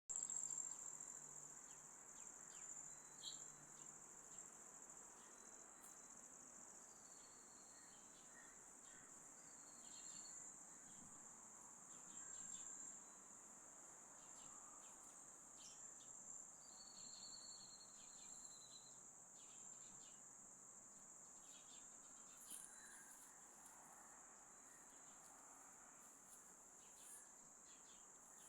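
Faint, steady, very high-pitched insect trilling, with a few short, high whistled notes over it.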